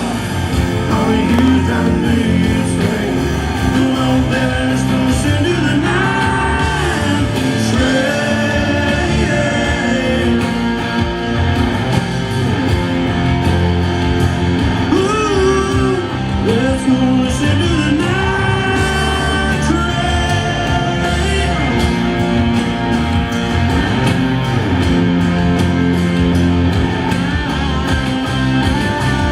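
Live country-rock band playing loudly, with electric guitars over a full band and singing on top.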